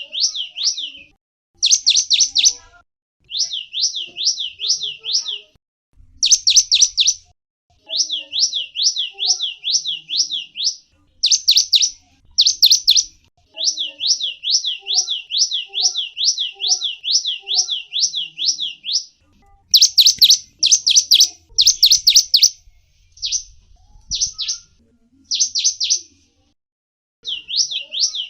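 A gelatik wingko songbird singing. It gives phrases of rapid, high, down-slurred chirps at about three a second, with short pauses between phrases. The notes come louder and more tightly packed about twenty seconds in.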